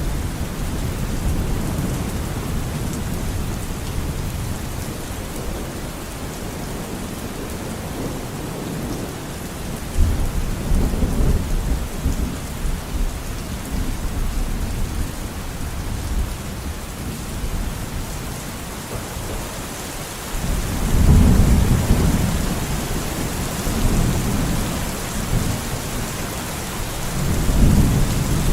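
Steady rain with low rolling thunder that swells up several times, loudest about two-thirds of the way through.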